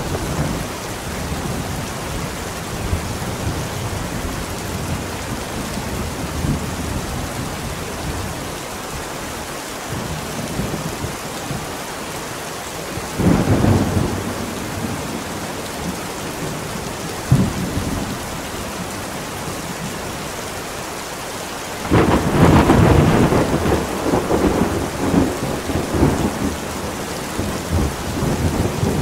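Steady rain in a thunderstorm. A thunder rumble comes about 13 seconds in, a short sharp crack follows a few seconds later, and a long, loud roll of thunder starts about 22 seconds in and fades out unevenly.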